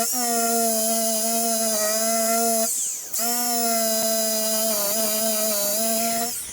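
DeWalt drill spinning a wire wheel against a car body panel, stripping thick paint and rust down to bare metal. It gives a steady high whine, is let off for a moment about three seconds in, spins back up, and winds down near the end.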